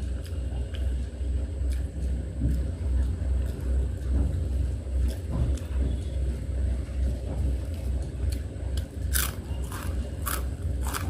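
Close-up chewing of a mouthful of rice and curry, an uneven low pulsing with each bite, and a run of sharp wet mouth clicks near the end.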